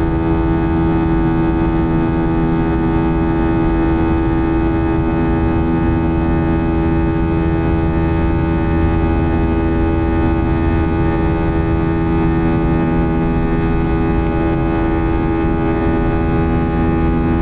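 Airbus A321-231's IAE V2500 engines at climb power, heard inside the cabin: a loud, steady drone made of many steady tones over a low rumble, the fan buzzsaw of these engines.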